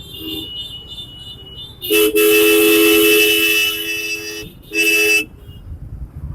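A road vehicle's two-tone horn honking: one long blast of about two and a half seconds starting about two seconds in, then a short second blast.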